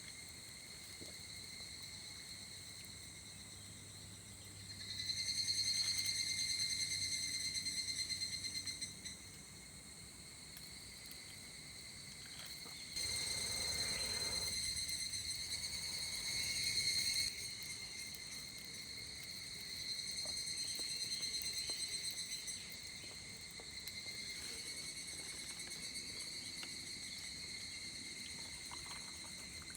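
Insects singing a steady, even-pitched shrill that swells into louder bouts and fades back several times, with a short burst of noise about thirteen seconds in.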